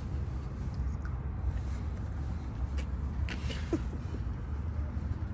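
A steady low rumble of background noise, with a few light clicks and taps scattered through it.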